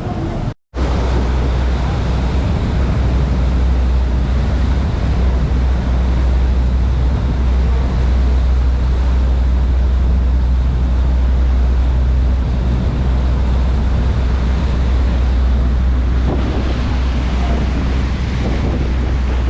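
Wind buffeting the microphone over the steady low drone of a boat's engine. There is a brief dropout about half a second in.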